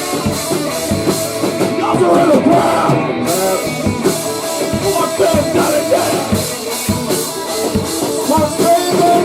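A hardcore rock band playing an instrumental stretch of a song, with a drum kit beating steadily under the other instruments.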